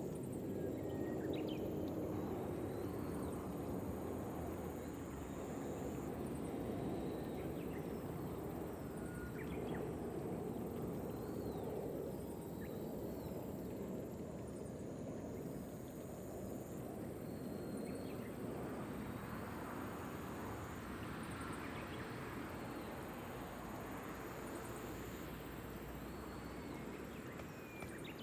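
Steady patter of gentle rain, with scattered short bird chirps and a thin, high, steady insect trill in the background.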